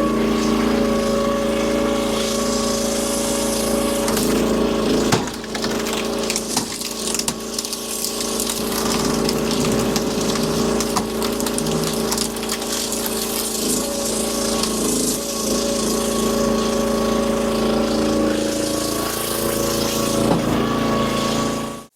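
Firewood processor running steadily under engine power while splitting wood, with sharp cracks and knocks of the wood giving way, the loudest about five seconds in. The engine sound cuts off suddenly near the end.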